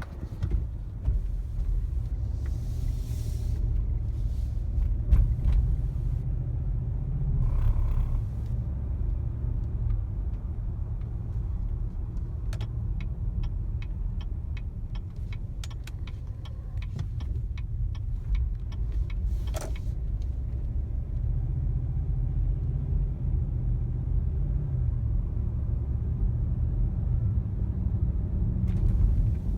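2015 Cadillac Escalade heard from inside the cabin while driving: a steady low drivetrain and road rumble, with a sharp knock about five seconds in and a run of light ticks later on. The owner takes the knocking for a transmission that is not shifting properly, an issue he says Cadillac is aware of.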